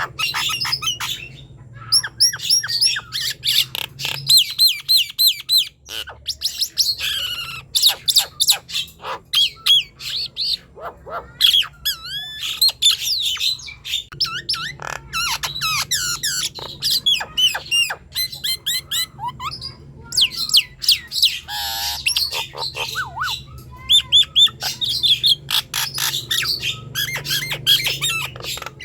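Nias hill myna singing a fast, varied stream of loud whistles, squawks and chattering calls, with a couple of short pauses. A steady low hum runs underneath.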